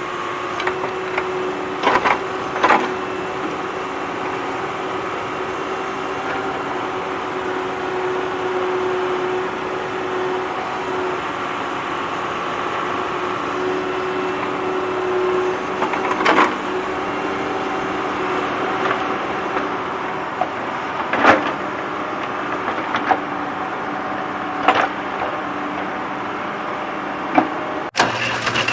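Tractor engine running steadily, with a handful of short sharp knocks scattered through.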